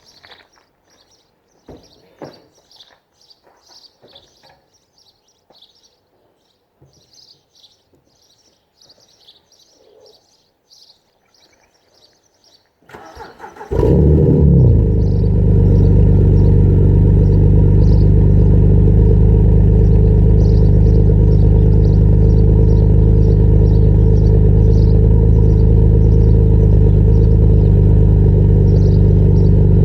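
Birds chirping over a quiet background with a few faint clicks, then about 13 seconds in a BMW 130i's 3.0-litre straight-six is cranked briefly and catches. It settles into a loud, steady idle through its custom-made exhaust.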